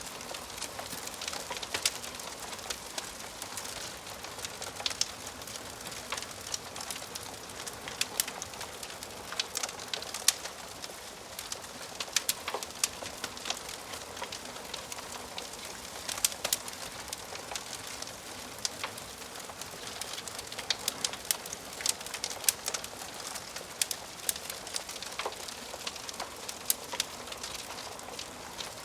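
Wood fire crackling in a fireplace: a steady hiss broken by frequent irregular sharp pops and snaps.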